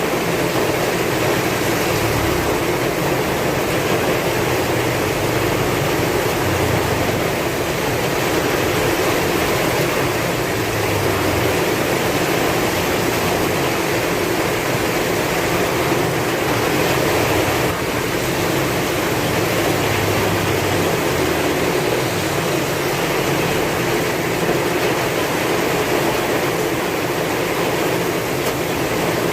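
Heavy rain falling in a dense, steady hiss, with a low rumble of strong wind that swells and fades underneath.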